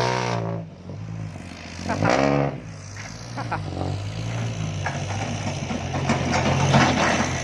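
Dump truck's diesel engine running steadily, a low, even drone.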